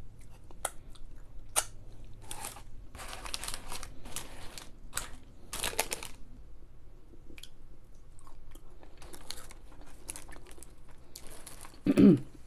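A person chewing crunchy fried food close to the microphone: a run of irregular crisp crunches with short pauses between them. A brief vocal sound near the end.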